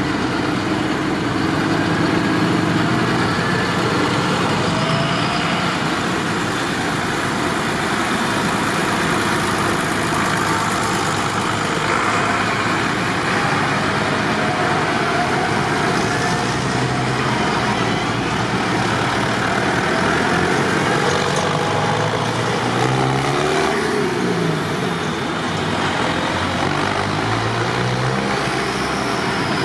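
Tractor engines running steadily, with engine pitch shifting and gliding up and down a little past twenty seconds in.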